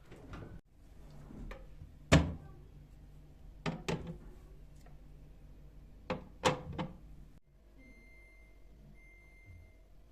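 A series of sharp knocks and clunks of things being handled, the loudest about two seconds in, over a low steady hum. After a break near the end, a faint high steady tone comes and goes.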